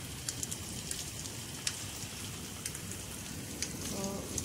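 Steady rain falling on potted plants and a wet concrete floor, with scattered sharp drop impacts.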